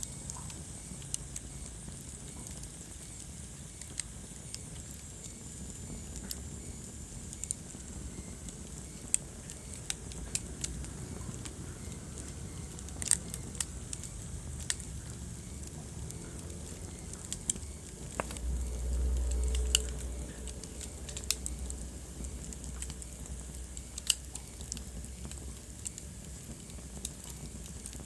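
Wood fire in a fireplace crackling, with scattered sharp pops over a low steady rumble of burning. About two-thirds of the way through, the low rumble swells briefly for a second or two.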